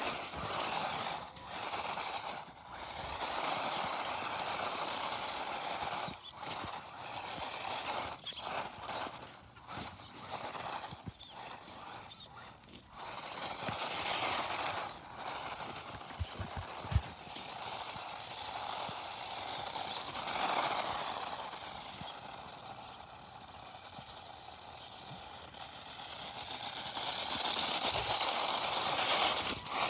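Radio-controlled toy car running, a noisy mechanical sound that swells and drops away again and again, quieter for a few seconds past the middle.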